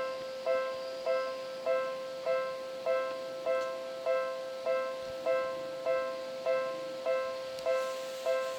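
Japanese railway level-crossing warning bell ringing: a struck electronic two-tone ding repeating steadily about every 0.6 seconds.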